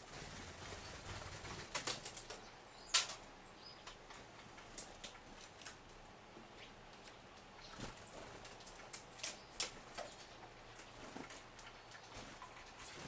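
Small birds flapping their wings as they fly on and off a wooden bird feeder, with scattered light taps and clicks on the wood, the loudest about three seconds in and a few more around eight to ten seconds in.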